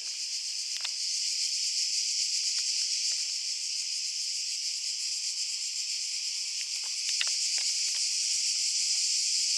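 Cicadas buzzing in a steady, high chorus, with a few faint clicks.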